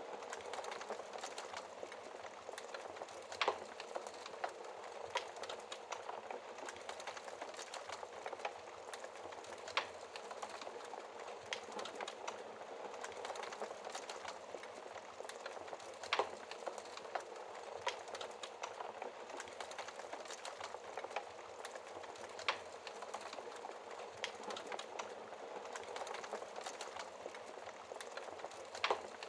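Wood fire burning in a fireplace: a steady hiss and rustle of flames with constant small crackles and an occasional louder pop.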